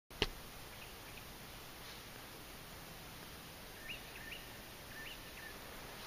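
Small birds chirping faintly over a steady outdoor hiss, with a cluster of short chirps about four to five seconds in. A sharp click sounds right at the start.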